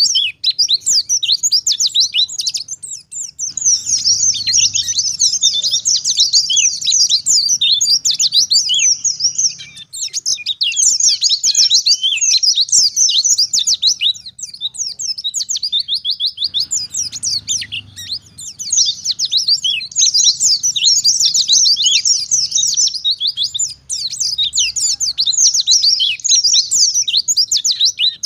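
White-eye (pleci) singing in a fast, continuous run of high chirping notes, broken only by a few brief pauses.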